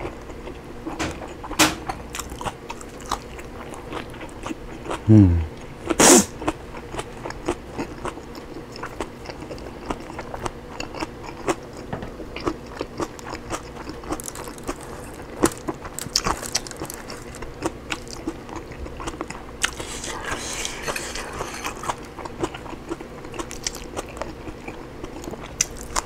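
Close-up chewing, biting and lip-smacking of someone eating roast chicken and broccoli: a steady run of small wet clicks and crunches. A short low falling sound comes about five seconds in, followed at once by a sharp louder noise.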